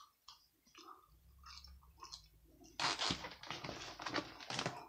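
A person chewing food close to the microphone. There are sparse small wet clicks at first, then denser, crunchier chewing from about three seconds in.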